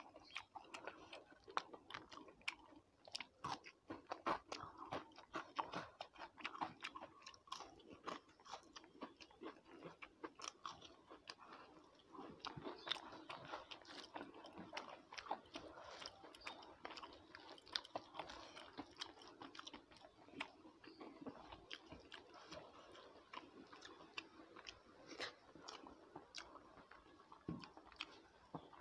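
A person chewing mouthfuls of rice eaten by hand, with many small irregular mouth clicks and an occasional crunch.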